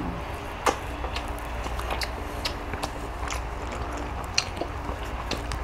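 People chewing and eating boiled chicken, with scattered small clicks and two sharper clicks, one under a second in and one past four seconds, over a steady low hum.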